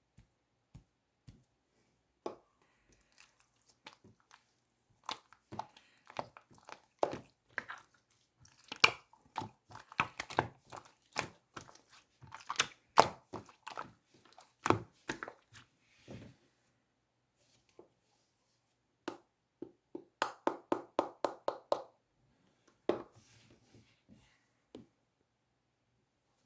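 Marbled slime being played with by hand, making many short crisp clicks and pops, irregular and busiest through the middle, then a quick run of about eight pops near the end.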